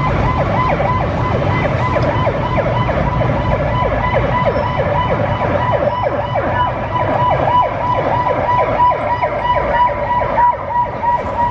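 Electronic siren sounding in a fast yelp, its pitch sweeping down again and again about three to four times a second, over a steady low vehicle rumble.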